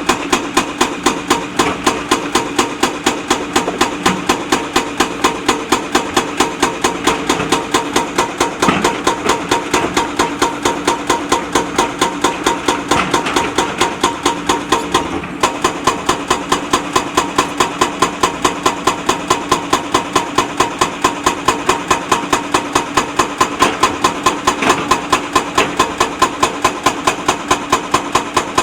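JCB backhoe loader's diesel engine running, with a rapid, very even knocking at about five knocks a second throughout.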